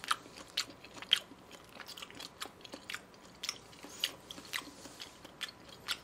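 A person chewing a mouthful of raw beef sashimi close to the microphone: irregular wet mouth clicks and smacks, two or three a second.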